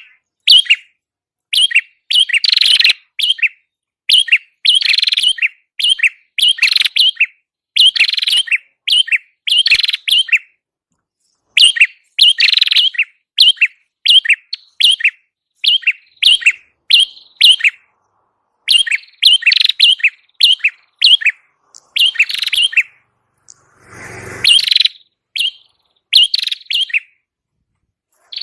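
Song of the prenjak kepala merah (red-headed prenjak), a loud run of sharp, high chirps repeated several times a second in phrases broken by short pauses. A brief low rustle comes in about three quarters of the way through.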